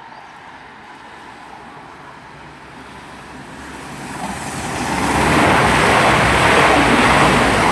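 CrossCountry diesel passenger train passing through the station without stopping, its rushing noise swelling as it approaches and loudest over the last couple of seconds.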